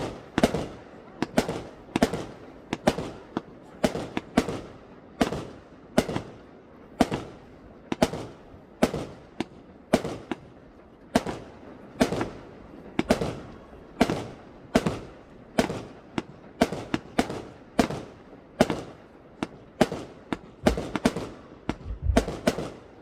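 Aerial fireworks exploding in a steady barrage, sharp bangs coming one to two a second, each followed by a brief echo.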